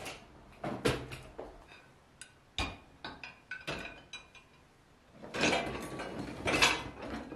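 Household handling sounds: a scattering of sharp clinks and knocks, like dishes and utensils being moved about, with a longer, louder noisy stretch about five seconds in.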